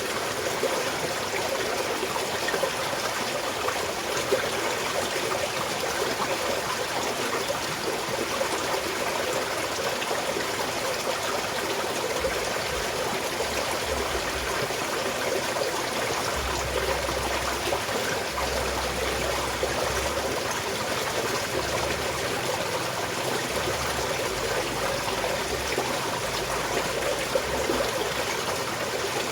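A small mountain stream flowing and trickling over rocks: a steady, even rush of water.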